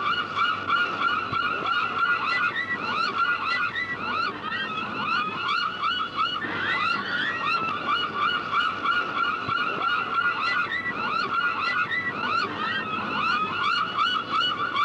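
A flock of gulls calling continuously, many short cries overlapping in a dense chorus.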